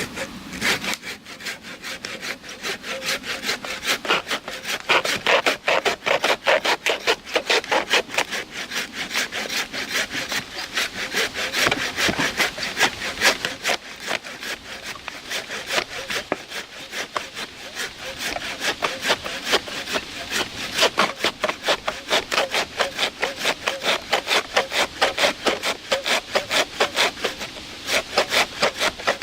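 Handsaw cutting into a tree trunk with steady, rapid back-and-forth strokes.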